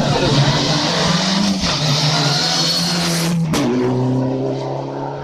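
Race car engine at high revs accelerating, with a gear change about three and a half seconds in, then easing off slightly as it moves away.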